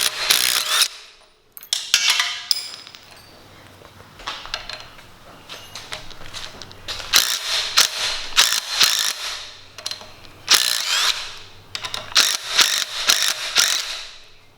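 Hand tools on the KX500's front end clicking and rattling in several bursts with quiet gaps between, a wrench or ratchet working fasteners loose as the forks are removed.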